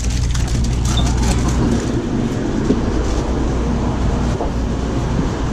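Steady low rumble of a Shinkansen bullet train running at speed, heard from inside the carriage, with a few faint clicks in the first second or so.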